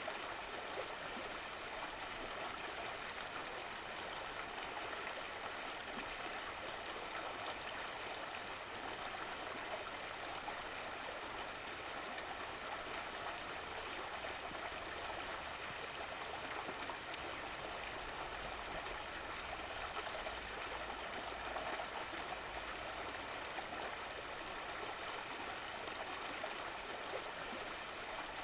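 Stream of running water flowing and trickling steadily.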